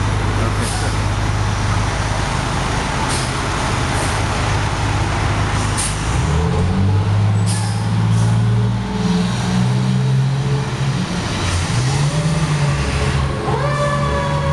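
Fire truck engine running and pulling away, its pitch rising in steps from about halfway as it accelerates through the gears, with several short air-brake hisses in the first half. Near the end a new higher tone with overtones rises and then slowly falls.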